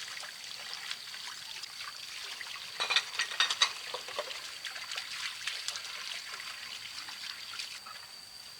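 Water trickling and splashing, with irregular crackling clicks that are densest about three to four seconds in, over a steady high-pitched tone.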